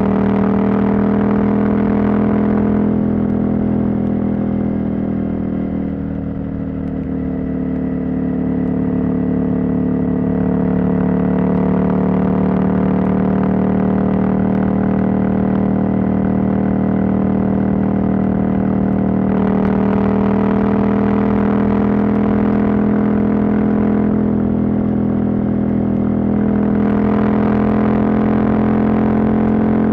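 Husqvarna Norden 901's parallel-twin engine, catalytic converter removed, running steadily under way at road speed. The engine note eases and dulls a few seconds in, then slowly climbs in pitch, and grows fuller and brighter again about twenty seconds in and near the end as the throttle opens.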